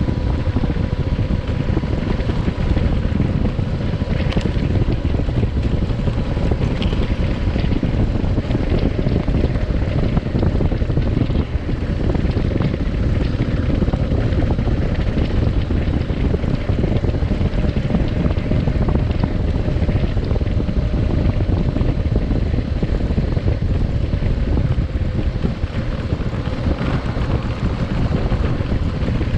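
Adventure motorcycle under way, its engine running at a steady pace beneath heavy wind rush on the microphone.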